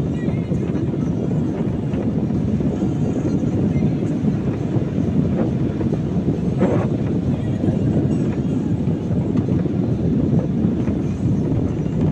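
Steady road noise of a car driving on a wet road in the rain, heard from inside the cabin: low tyre and engine rumble with a hiss of water under the tyres.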